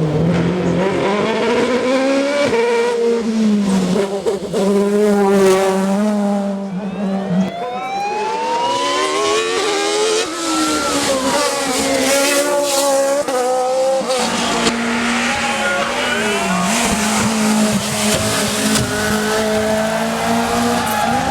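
Racing car engines at high revs, the pitch climbing and then dropping back again and again through gear changes as the cars pass.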